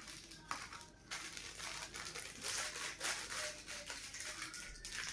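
Spoon scooping and stirring powdered baby cereal into water in a small dish: a run of short, scratchy scraping strokes.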